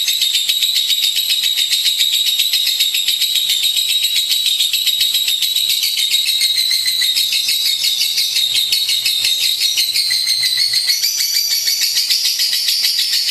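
A lovebird singing, a continuous rapid high-pitched chattering trill with no pauses.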